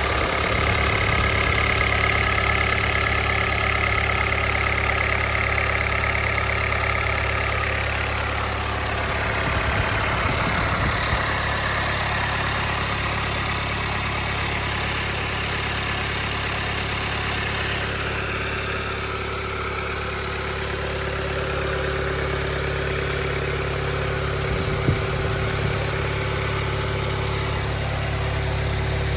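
Rebuilt Doosan DM02 (D24NAP) diesel engine idling steadily during a test run after rebuilding, with one small click about 25 seconds in.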